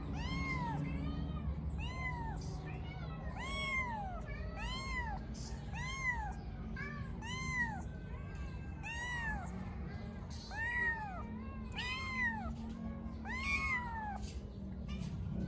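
Kitten meowing over and over, about twenty short high mews, each rising and falling in pitch, roughly one every 0.7 seconds, stopping shortly before the end.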